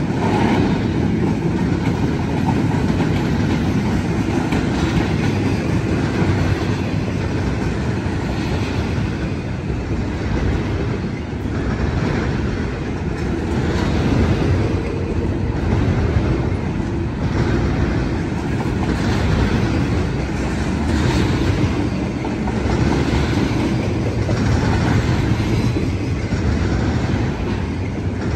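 Intermodal freight train cars rolling past, their steel wheels clacking over rail joints amid a steady rumble.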